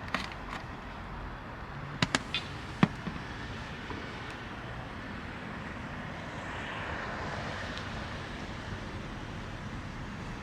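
A vehicle passing, a hiss that swells and fades around seven seconds in, over steady background noise, with a few sharp clicks in the first three seconds.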